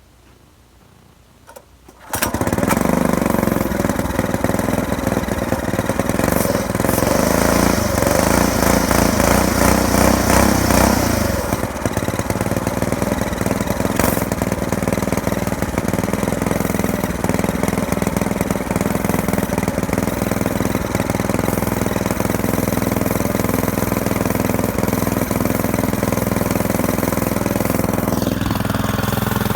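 Predator 212 single-cylinder engine on a minibike with a 22mm Mikuni carburetor starting up about two seconds in, then running steadily. It runs louder and faster at first, then settles to a slightly quieter, even idle about a third of the way through.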